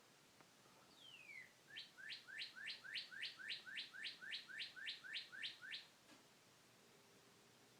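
A bird singing: one whistled note sliding down, then a quick series of about fifteen rising notes, three or four a second, that stops a little before six seconds in.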